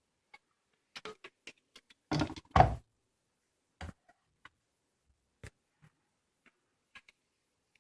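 Scattered light clicks and taps, with two heavier knocks in quick succession about two seconds in. No steady motor hum is heard.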